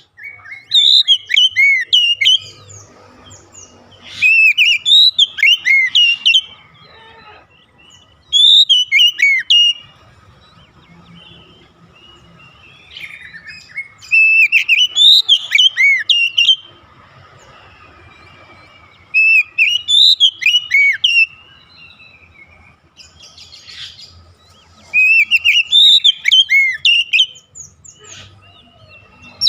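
Oriental magpie-robin (kacer) singing: about six loud phrases of quick, rhythmic whistled notes, many sliding down in pitch, each phrase one to three seconds long with pauses of a few seconds between.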